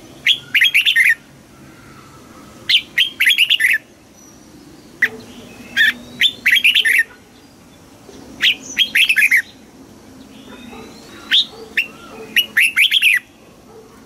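Red-whiskered bulbul singing: loud, short phrases of quick, sweet notes, repeated five times with pauses of a second or two between them.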